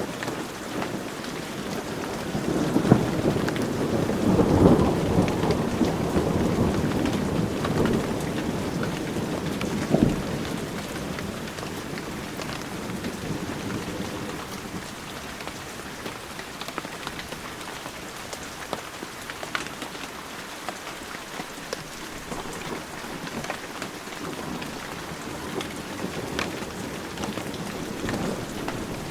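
Heavy rain falling steadily, with scattered sharp drip ticks. A low rumble of thunder swells about two seconds in, is loudest a few seconds later and fades away, and a short sharp thunder crack comes about ten seconds in.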